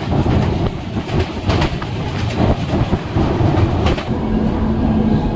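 Coaches of the 22201 Sealdah–Puri Duronto Express running on the track: a steady rumble with irregular sharp knocks of the wheels over the rails. A steady low hum comes in about four seconds in.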